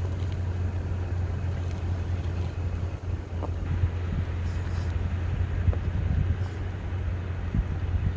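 Steady low drone of a car heard from inside the cabin while driving, with a few faint knocks.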